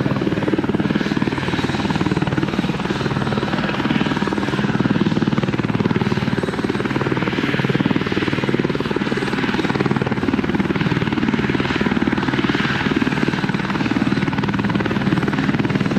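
Helicopter running steadily, its rotor chop and engine making a loud continuous noise with rapid, even pulsing.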